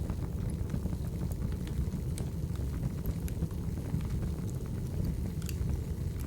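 Wood fire burning in a fireplace: irregular small crackles and pops over a steady low rumble.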